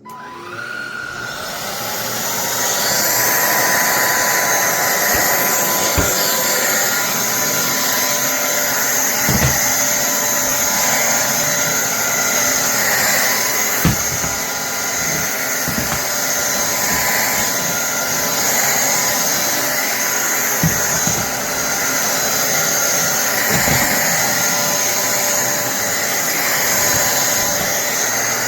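INTETURE cordless stick vacuum switching on, its motor spinning up over the first couple of seconds and then running with a steady high whine. A few short knocks are heard along the way.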